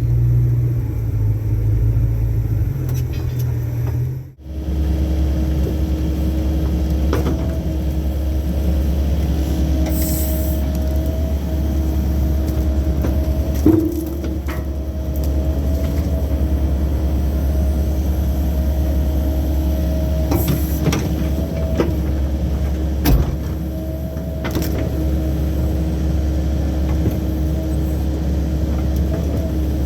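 Heavy equipment's diesel engine running steadily under work, with a few sharp metal knocks. The sound drops out briefly about four seconds in.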